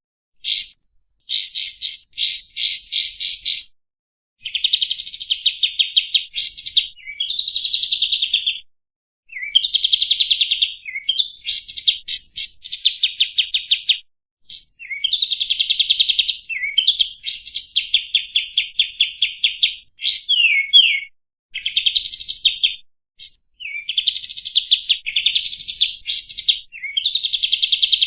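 Kapas tembak songbird singing: long phrases of rapid, chattering note-trills between about 2 and 8 kHz, mixed with quick downslurred whistles, broken by short pauses of under a second.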